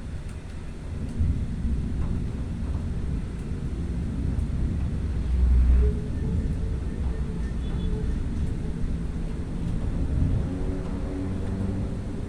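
Thunder rumbling, low and continuous, swelling loudest about halfway through.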